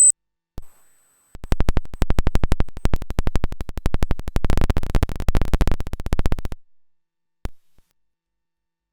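Paratek "Космический шум" square-wave oscillator noise module (a Jupiter Storm-style eurorack unit) giving a rapid train of sharp clicks. The clicks begin about a second and a half in, speed up into a dense buzzing crackle, then cut off suddenly. A high whistle ends right at the start, and a single click sounds near the end.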